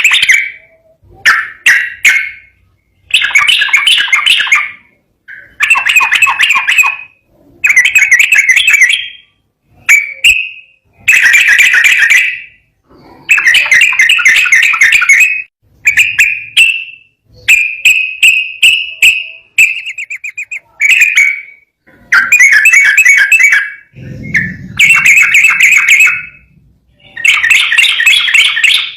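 Yellow-vented bulbul (trucukan) singing its loud, bubbly chattering song in rapid-fire phrases of one to two seconds each, repeated after short pauses throughout.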